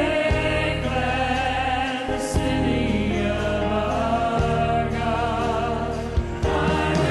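Group of voices singing a gospel worship song over steady instrumental accompaniment.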